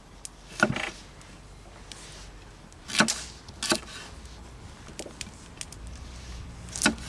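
Knife chopping on a wooden cutting board: four sharp chops spaced unevenly, with a few light taps between them.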